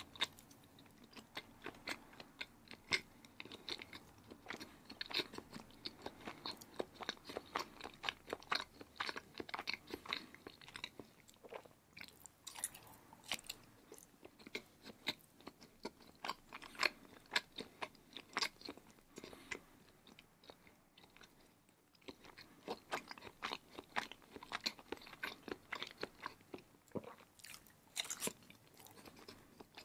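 A person chewing large bites of block cheese: rapid clicking mouth sounds, with two short lulls, about a third and two-thirds of the way through.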